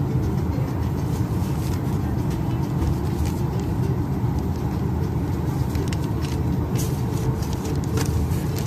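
Steady low rumble of cabin air-conditioning inside a Boeing 737-800 parked at the gate before engine start, with a few faint clicks near the end.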